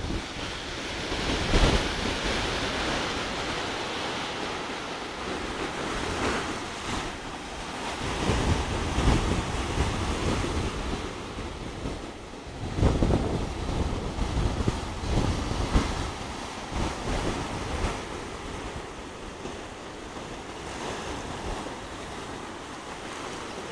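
Sea surf washing in and out, rising and easing in swells every few seconds, with wind buffeting the microphone.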